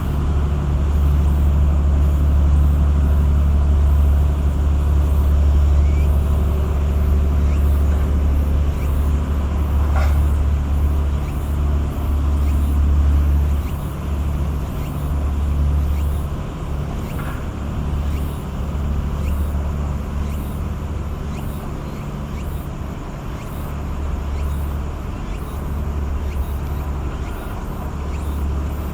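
Steady low drone of a large tugboat's diesel engines passing through the strait, louder at first and easing off about halfway through.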